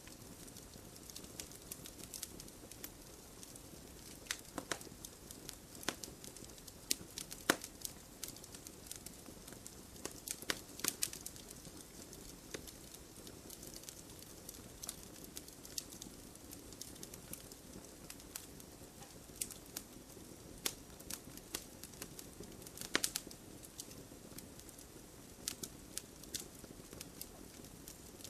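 Wood campfire burning with a steady low hiss and irregular sharp crackles and pops, a few louder snaps about 7 seconds in, around 10 to 11 seconds and near 23 seconds.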